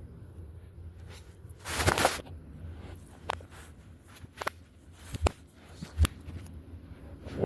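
Audio played backwards: a short rush of noise about two seconds in, then five or so scattered knocks and clicks over a low rumble.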